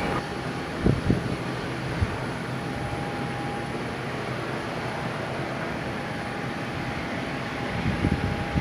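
Aircraft engine noise, steady throughout, with wind buffeting the microphone in low thumps about a second in, at two seconds and again near the end.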